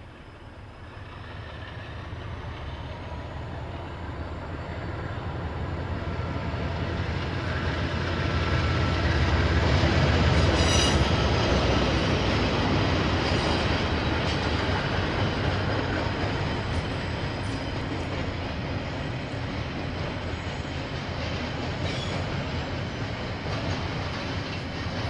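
KiwiRail train rumbling past on the line, growing steadily louder to its loudest about ten seconds in, with a brief run of sharp wheel clicks there, then passing on more slowly fading.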